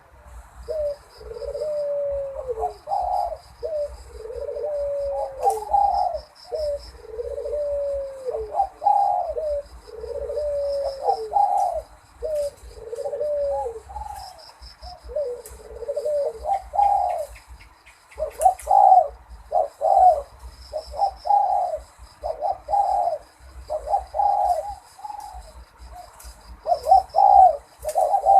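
Zebra dove singing: a long, continuous series of short cooing notes in a trilled rhythm, the first notes sliding downward, then quicker, choppier coos from about two-thirds of the way in. A faint high chirping of another small bird runs behind.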